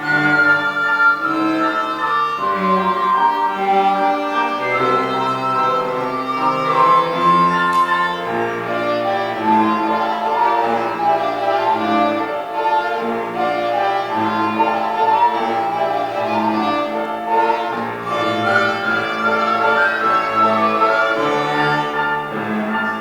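Live ensemble music: a violin carries a sustained melody over a cello's bass line, with notes changing roughly every second.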